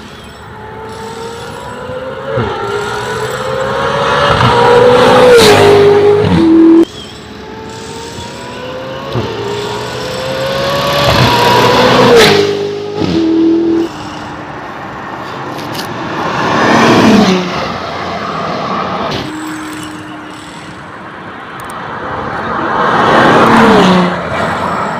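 Supercar engines accelerating hard one car after another. Each climbs steadily in pitch and then drops sharply at an upshift, and the later cars pass with a quickly falling pitch.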